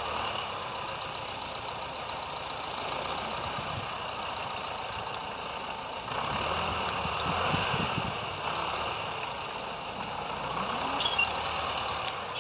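T-40 tractor's air-cooled diesel engine running steadily, growing louder about six seconds in.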